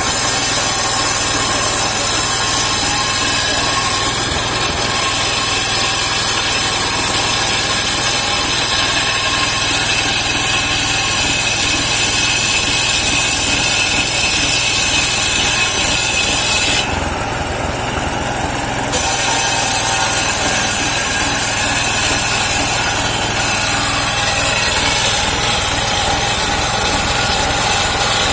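Engine-driven homemade circular sawmill running steadily and sawing a saman (rain tree) log, the engine humming under the high whine of the blade in the wood. Past the halfway point the high sawing sound drops away for about two seconds, then comes back.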